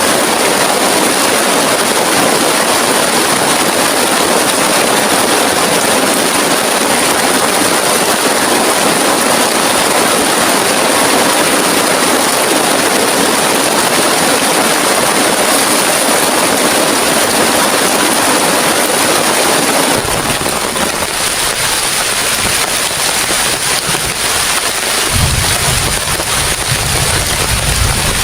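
Heavy rain pouring down in a steady, dense hiss. About twenty seconds in the sound changes abruptly, and near the end low gusts of wind buffet the microphone.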